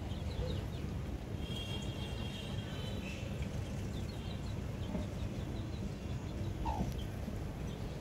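Small birds chirping: short high chirps repeated through, with a longer steady call about two seconds in, over a continuous low rumble.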